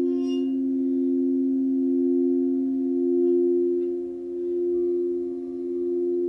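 Steady low held tones for sleep-relaxation sound healing, two or three notes sounding together and slowly swelling and fading. A brief bright chime-like strike rings at the very start.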